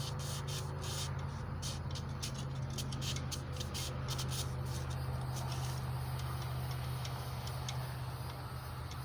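Emery cloth scraping over a crankshaft journal in quick irregular scratchy strokes, over a steady low hum. The scratching is dense for the first half and thins out after about five seconds.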